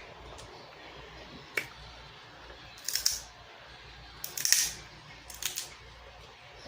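Snow crab leg shells cracking and snapping apart: a sharp click about a second and a half in, then crunchy cracks near three, four and a half and five and a half seconds, the one at four and a half the loudest.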